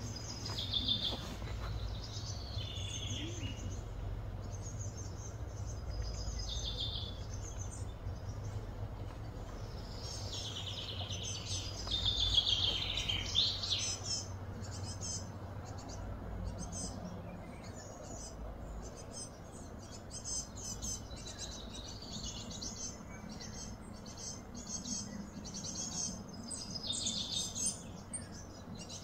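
Birds chirping and calling, with short gliding notes and rapid chirp trills, loudest in a burst of calls about halfway through. A steady low hum runs underneath.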